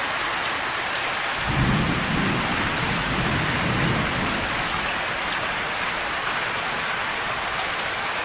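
Steady rain pouring down in a severe thunderstorm, with a low rumble of thunder that comes in about a second and a half in and fades away about three seconds later.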